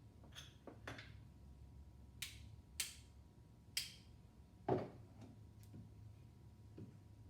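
Metal engine parts clinking and clicking as they are handled and set down: about seven short sharp clicks spread out, the loudest a duller knock about two thirds of the way through, over a steady low hum.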